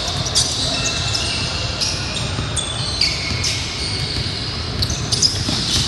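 Sounds of basketball play on an indoor court: sneakers squeaking in short, high chirps and a ball bouncing, over a steady low rumble.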